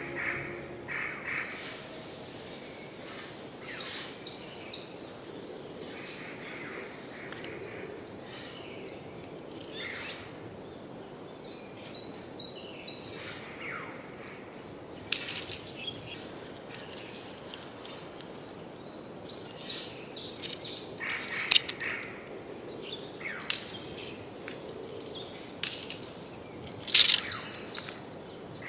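Birds singing outdoors: a short, fast, high trilled phrase repeated about every eight seconds, with fainter chirps between. A few sharp clicks stand out, the loudest about two-thirds of the way through and near the end.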